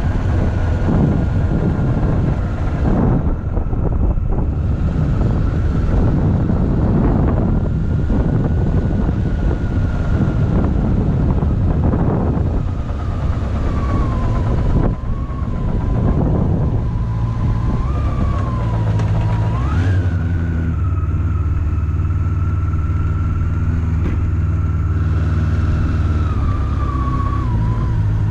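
2007 Honda CB400SF's inline-four engine running under way, with heavy wind noise on the microphone for the first half. A high whine rides along with it, rising and falling with the revs and jumping up sharply about twenty seconds in.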